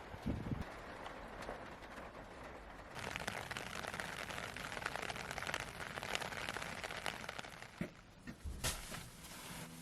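Rain falling steadily, a dense hiss and patter that grows louder about three seconds in, with a few soft knocks.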